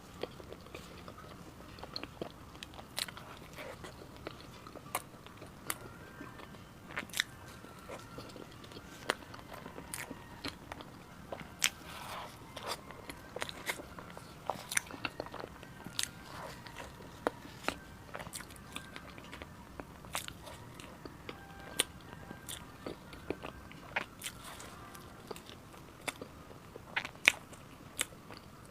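Close-miked biting and chewing of egg tarts: the flaky pastry gives irregular, sharp crunchy crackles, one to a few a second, between quieter chewing.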